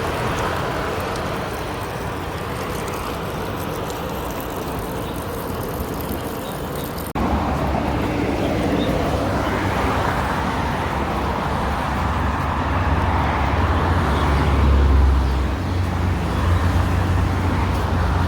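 Street traffic noise from passing motor vehicles. It changes abruptly about seven seconds in, and from then on a louder, deeper engine rumble from nearby traffic holds steady.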